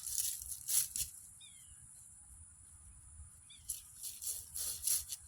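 A small bird chirps twice, two short falling notes, over a steady high hiss of outdoor ambience, with rustling and crunching of movement at the start and again near the end.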